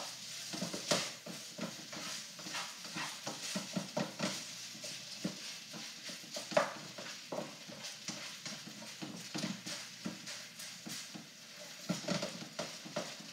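Spatula scraping and knocking in a hot wok as rice and egg are stir-fried, with an irregular run of clacks and scrapes over steady sizzling.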